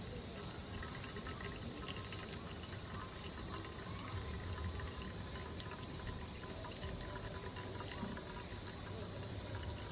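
Insects chirring steadily over an even background hiss, with faint scattered ticks.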